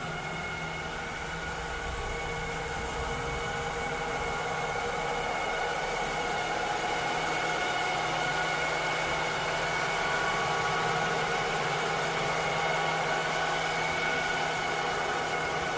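Robot vacuum cleaner running steadily: a continuous motor whir and airflow hiss with several steady humming tones, slowly swelling a little.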